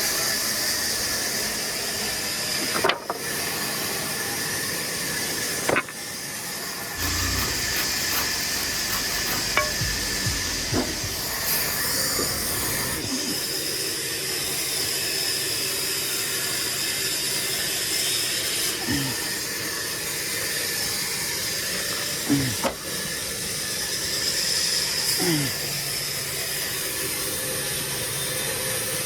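A steady hiss with a few short clicks and knocks scattered through it.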